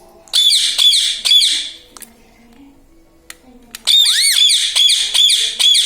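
Indian ringneck parakeet screeching: a run of sharp, high repeated calls, then after a pause of about two seconds a longer, faster run of the same calls.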